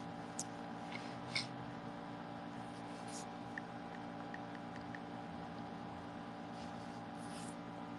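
Steady low background hum made of several fixed tones. A few short, faint hisses and a handful of light ticks sound over it.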